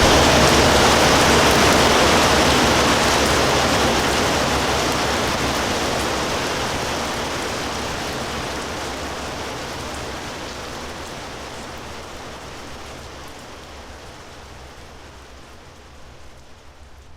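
Steady hiss of heavy rain falling, fading out gradually.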